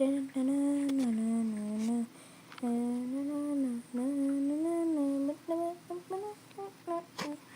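A child humming in long, gliding held notes, then a run of short notes near the end.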